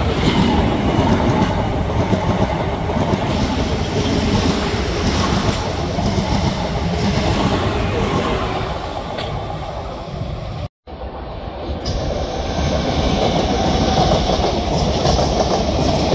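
Southeastern Class 465 Networker electric multiple unit passing close by: a steady, loud running noise of wheels on the rails. The sound drops out for an instant about eleven seconds in, and there are a few faint high clicks near the end.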